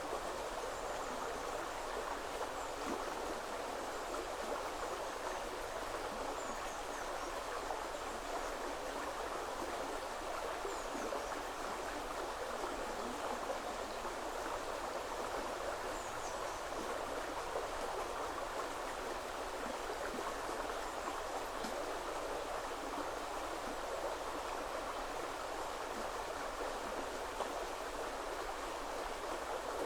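Woodland river running steadily, a continuous even rush of flowing water. Faint, high, short bird chirps come now and then over it, mostly in the first half.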